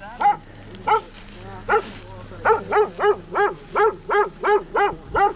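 A dog barking repeatedly: a few spaced barks, then a fast run of about three barks a second from about two and a half seconds in.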